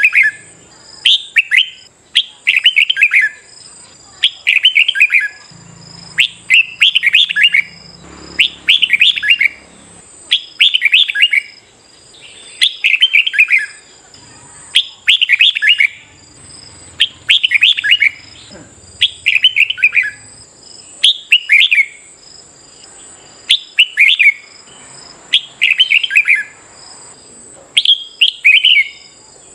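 Red-whiskered bulbul singing, a loud short phrase of quick notes repeated every one to two seconds, with a faint steady high whine behind it.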